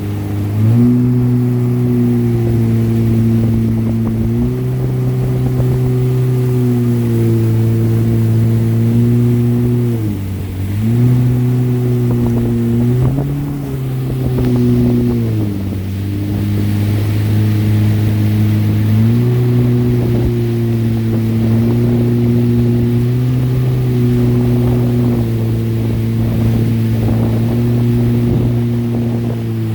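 Jet ski engine running steadily under throttle. Its pitch drops briefly about a third of the way through, sags again around the middle and climbs back soon after, as the throttle is eased and reopened.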